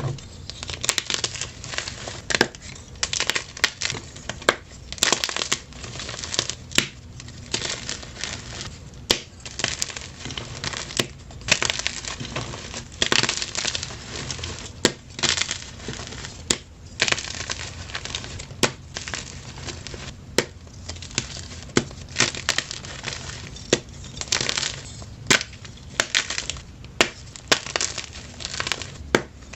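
Blocks of plain white gym chalk crushed by hand: continuous crunching and crumbling with sharp cracks as pieces break, the loudest snaps coming every second or so.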